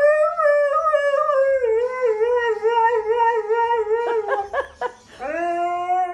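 Dog howling in long, wavering notes, with a few quick yips around four seconds in before a new long howl starts near the end.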